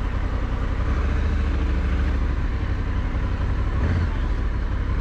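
Honda Africa Twin's parallel-twin engine idling with a steady low rumble, which shifts briefly about four seconds in.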